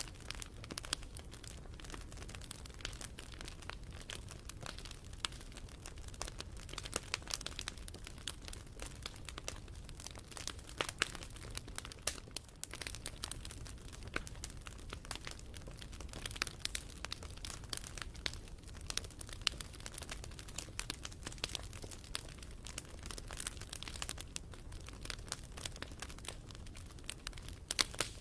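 Wood fire crackling, with many small irregular snaps and pops over a steady low rumble.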